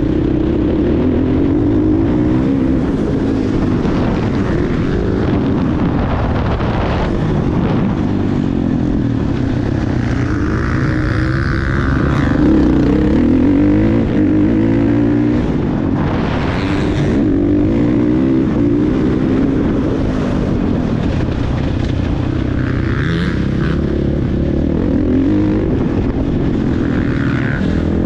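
Motocross bike engine running hard and continuously, its pitch rising and falling again and again as the throttle is worked around the track.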